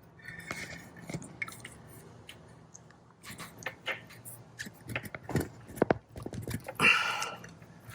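Small plastic speedometer fitting and hose being worked into place by hand on a boat's sterndrive: irregular clicks, taps and scrapes, with a louder breathy burst near the end.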